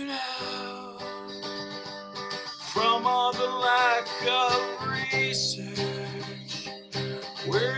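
Acoustic guitar playing steadily, with a singing voice coming in about three seconds in.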